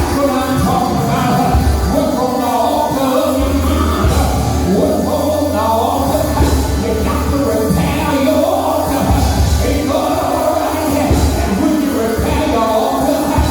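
Church music with a heavy bass line and singing voices over it.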